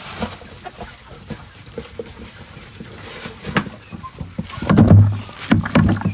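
Chickens clucking, with scattered light clicks and two louder bursts near the end.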